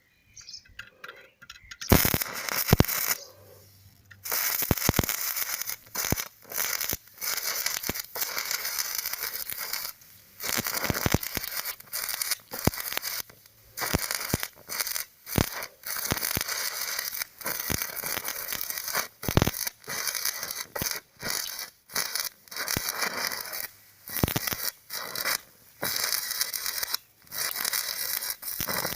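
Electric arc welding crackling and sizzling in short runs of a second or two, breaking off and restarting many times, from a welder powered by LiFePO4 batteries.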